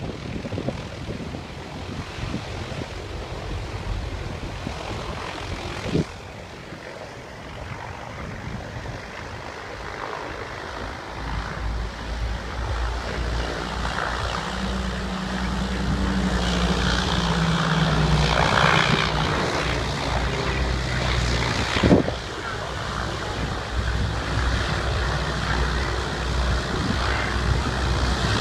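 Propeller-driven piston aircraft passing, its engine drone building about a third of the way in. It is loudest around two-thirds through, where the engine note falls slightly as it goes by. Wind rushes on the microphone early on, and there are a couple of brief thumps.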